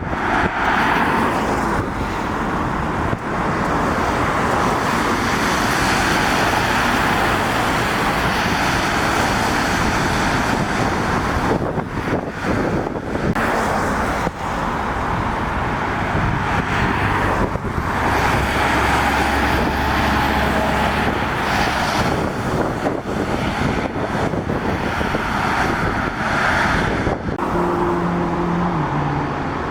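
Road traffic of lorries and cars passing one after another on a wet road, with a continuous hiss of tyres on wet tarmac that swells and fades with each vehicle. A deeper engine drone comes in around the middle, and near the end an engine note drops in pitch.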